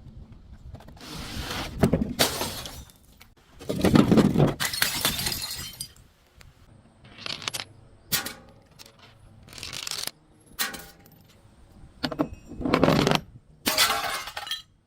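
Glass bottles breaking and crunching as they are crushed, in a series of separate bursts with short pauses between them; the loudest crunch comes about four seconds in.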